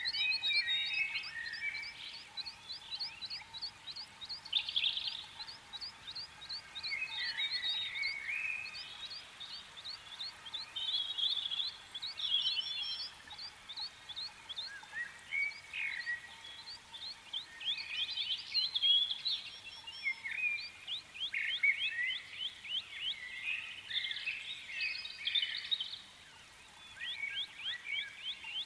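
Birds chirping and calling. Fast runs of short, high, falling chirps mix with varied lower calls, and they come and go in bursts.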